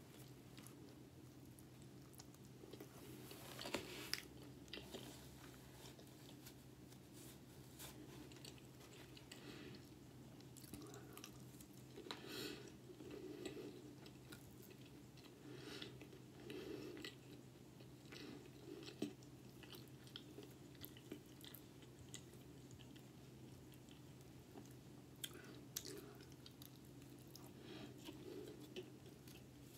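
Faint close-up chewing and mouth sounds of a person eating fried tilapia and cheese fries, with scattered soft smacks and a few sharper clicks, over a steady low hum.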